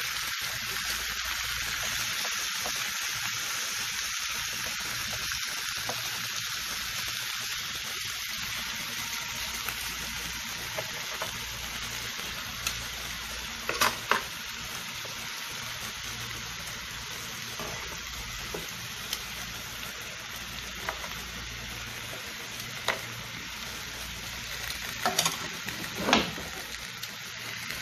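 Chicken pieces, sliced potatoes and onion rings sizzling in oil in a pan: a steady frying hiss. A few sharp clicks of metal tongs against the pan stand out, one about halfway through and a couple near the end.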